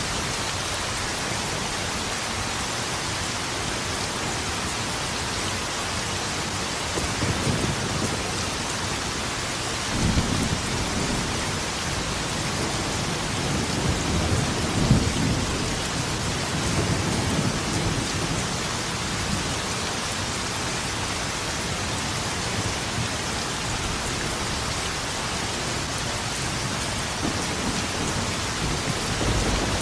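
Steady heavy rain hissing, with rolling thunder rumbling low from about a quarter of the way in, swelling loudest around the middle, and another low rumble near the end.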